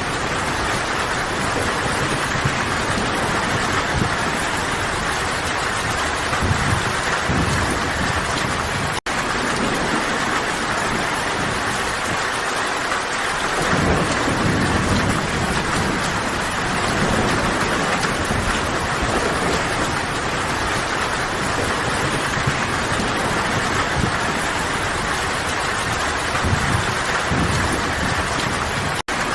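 Steady heavy rain falling in a forest, a dense even hiss with low rumbling swells now and then. The sound cuts out for an instant twice, once about nine seconds in and once near the end.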